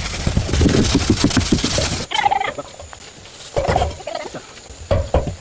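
A bird, likely poultry, giving three short calls about a second and a half apart, after a busier noisy sound that cuts off about two seconds in.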